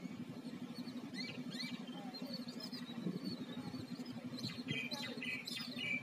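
Birds chirping and calling, with a quick series of harsher calls near the end, over a steady low hum.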